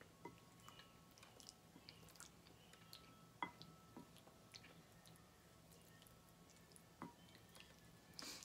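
Faint chewing of soft food, with scattered light ticks and two sharper clicks of a spoon against the bowl, one near the middle and one later. A short scraping rustle comes near the end.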